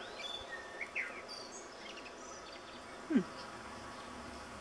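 Scattered high bird chirps over a faint steady hum, with one short low falling sound about three seconds in.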